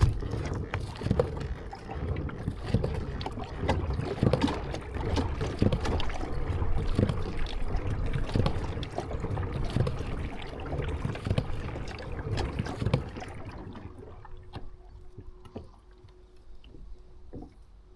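Kayak being paddled: water splashing and irregular knocks against the hull. The sound dies down about fourteen seconds in, leaving a faint steady tone and a few light clicks.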